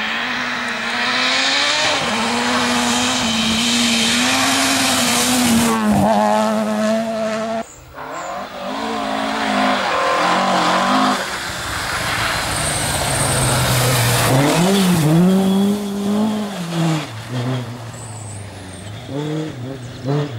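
Rally cars at full throttle on a special stage, engines revving hard and rising and falling in pitch through gear changes and braking for corners. There is an abrupt break about 8 seconds in, after which another run of hard revving follows.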